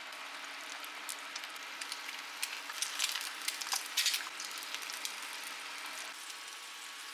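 An egg and several small balls frying in oil in a nonstick pan, a steady crackling sizzle. A few sharp clicks and crackles come in the middle while the food is turned with chopsticks.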